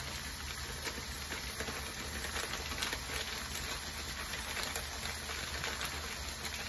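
Ground beef browning in a pot, a steady sizzle with faint scattered crackles.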